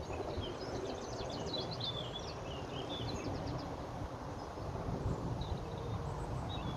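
A small songbird singing a quick run of high chirps and trills, which thins out about halfway through to a few faint calls near the end, over a steady low rumble of wind noise on the microphone.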